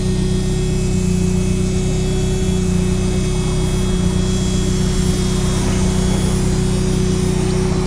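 Lancia Delta engine idling steadily with an even drone. It is running on a newly fitted standalone engine management system that still needs tuning.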